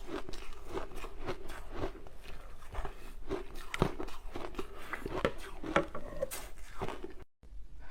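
Close-miked crunching of ice being bitten and chewed: a quick, irregular run of sharp crunches. The sound cuts off abruptly for a moment near the end.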